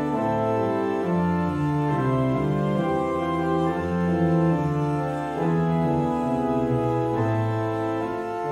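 Organ playing slow, sustained chords, the notes changing about once a second over a moving bass line.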